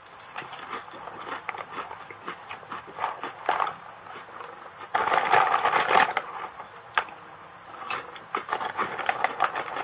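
Crunchy potato chips being chewed close to the microphone: a run of irregular crisp crunches, with the plastic chip bag crinkling in his hand. A louder, denser stretch of noise comes about five seconds in.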